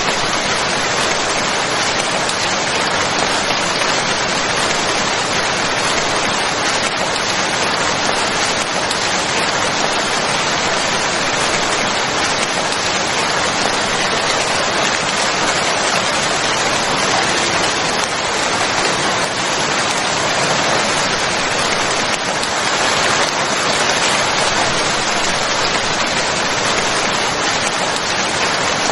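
Steady, heavy rain falling on a surface, a constant even hiss with dense drop patter and no changes.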